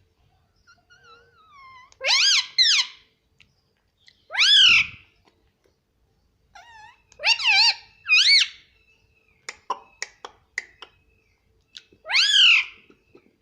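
Indian ringneck parrot calling: a series of loud, pitched calls that each rise and fall, some in pairs, with softer chatter and sharp clicks between.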